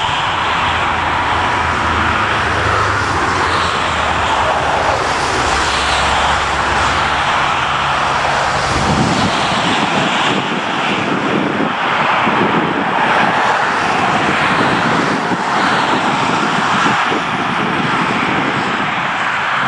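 Jet airliner engines running at high power, a loud steady rush of noise. A low hum underneath fades out about nine seconds in.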